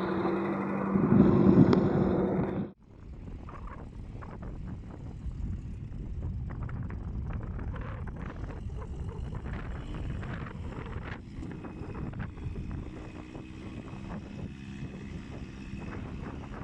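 Suzuki Samurai engine running hard with a steady pitch for about two and a half seconds, then an abrupt cut to a quieter, steady low rumble with wind on the microphone.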